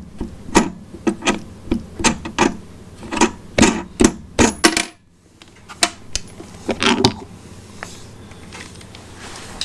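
Clicks and knocks of the welder's wire-spool hub parts being handled and fitted: a quick run of sharp clicks over the first five seconds, then a few more knocks and quieter handling.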